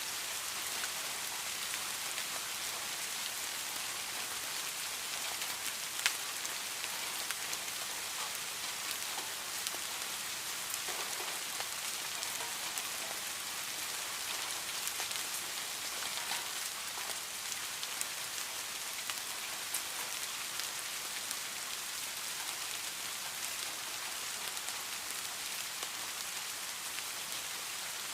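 Steady heavy rain, an even hiss full of fine drop ticks, with one sharper drop strike about six seconds in.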